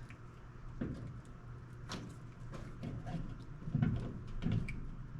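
Scattered small clicks and knocks of hands working a terminal into a plastic bulkhead wiring connector, trying to get it to click into place, over a steady low hum.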